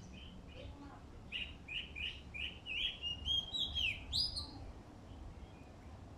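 A songbird singing one phrase of quick, repeated chirps, starting about a second in and ending after about four seconds with a note that sweeps upward. A faint low rumble runs underneath.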